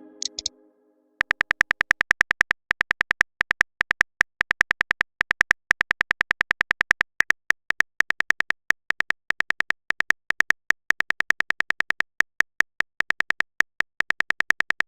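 Chat-app keyboard typing sound: a fast run of short, identical clicks, one per typed character, starting about a second in and going on with brief pauses.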